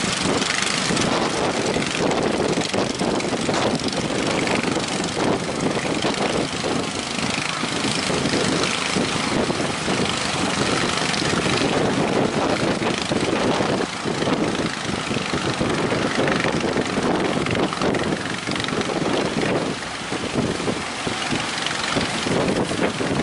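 Boat engine running steadily under strong wind buffeting the microphone, with the rush of surf.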